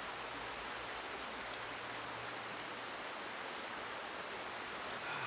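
Steady rushing of a river flowing nearby, with a single sharp crackle from the campfire about one and a half seconds in.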